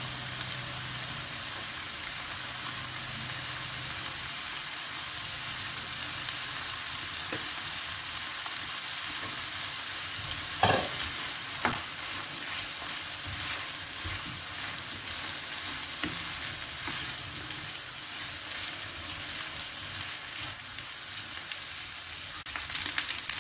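Vegetables and meat sizzling in hot oil in a wok-style pan while a wooden spoon stirs them. About ten seconds in come two sharp knocks, and then the boiled rice is in the pan, steaming, and is stirred through as it fries.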